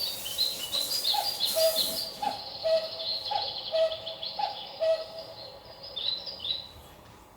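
Birds calling: a string of short repeated low notes, each with a small upward flick, mixed with quick high chirps.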